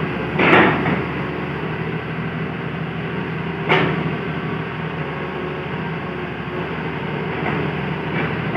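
Hitachi excavator's diesel engine running steadily under work, with a loud rush of noise in the first second and a single sharp clank of the bucket or tracks a little under four seconds in.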